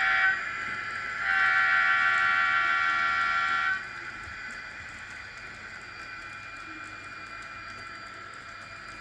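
Train horn sounding as a steady multi-tone chord. A first blast ends just after the start, then a longer blast of about two and a half seconds follows, leaving a faint steady background.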